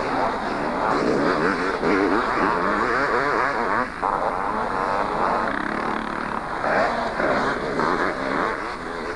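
Several two-stroke motocross bikes racing, their engines revving up and down over one another as they accelerate and shift.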